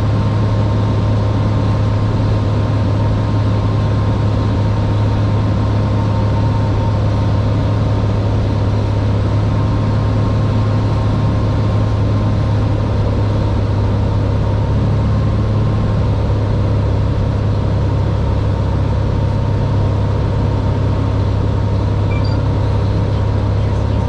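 Cessna 182R's six-cylinder piston engine and propeller droning steadily in flight, heard inside the cockpit as a loud, even hum with a steady whine over it.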